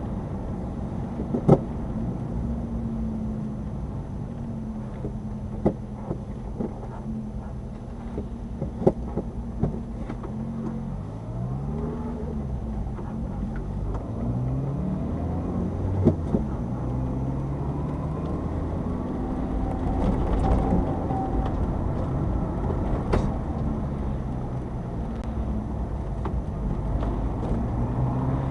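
Subaru Sambar engine heard from inside the cab while driving, its note rising and falling as the five-speed manual is worked through the gears. A few sharp knocks from the cab or body are mixed in.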